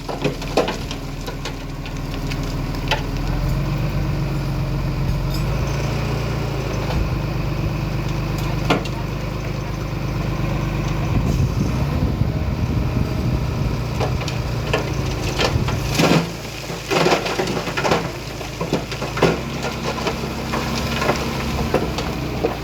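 Heavy earthmoving machinery running steadily, with scattered clanks and knocks and a cluster of louder knocks about two-thirds of the way through.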